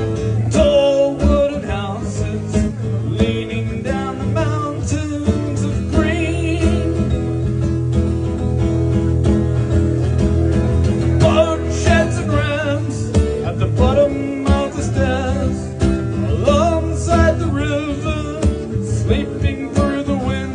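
Live song: a man singing with guitar accompaniment, his voice wavering on held notes above steady chords.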